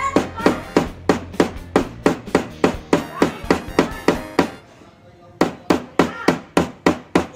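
Hand hammer striking a steel wire laid on a steel anvil block, metal on metal. It hits in quick, even blows of about four a second, stops for about a second past the middle, then starts again. The blows are shaping steel wire into a fish hook.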